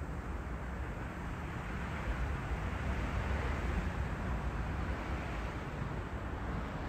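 Long Island Rail Road commuter train approaching a station platform: a steady low rumble with some hiss, growing slightly louder about two seconds in.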